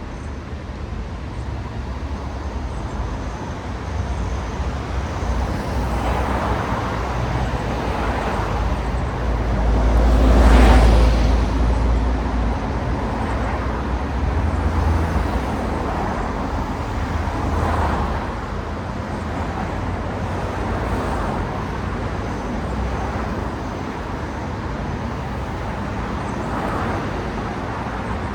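City street traffic: a steady rumble of cars with one vehicle after another passing by, the loudest pass about ten seconds in.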